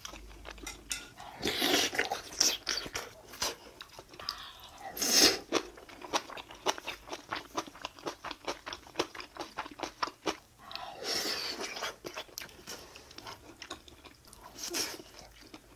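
Close-miked chewing and biting of gimbap, with many quick wet mouth clicks and a few louder bites.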